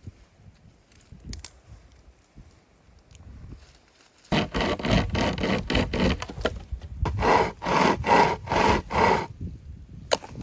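Hand saw cutting a piece of fallen wood for firewood: quick, even back-and-forth strokes, about three a second, starting a little over four seconds in and stopping after about five seconds.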